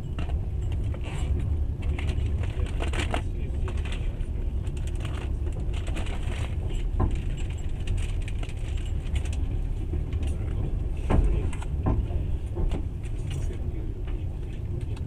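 Passenger train running, heard from inside the carriage: a steady low rumble with scattered rattles and clicks, and a few louder knocks, the strongest about eleven seconds in.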